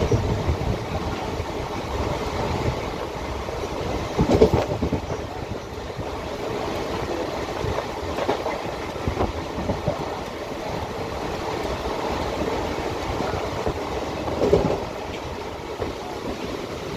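Passenger train coach running along the line, heard from inside: a steady rumble of wheels on rails, with a louder burst of clattering knocks about four seconds in and again near the end.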